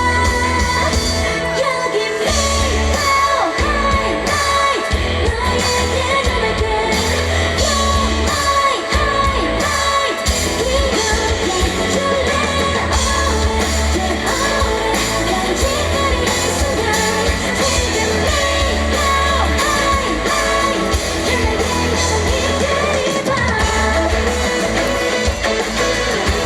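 A live pop-rock band performing with sung female lead vocals, electric guitar, and a heavy bass and drum beat.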